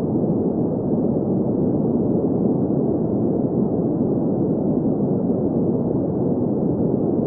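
Steady synthetic green noise: an even, unchanging hiss weighted to the middle and low range, with nothing above the upper mids.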